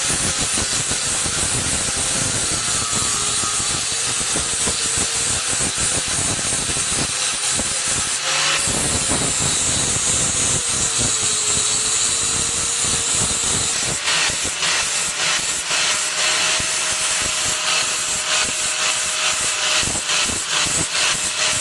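Steady, loud hissing noise with a faint wavering whine underneath. From about two-thirds of the way through, it is broken by many quick crackling ticks.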